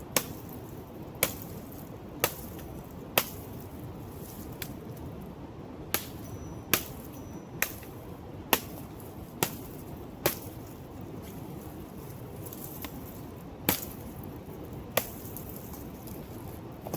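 A blade chopping the dry bunch of a coconut palm: sharp single strikes about once a second, irregularly spaced with a pause of about three seconds around two-thirds of the way through, over a steady background rush.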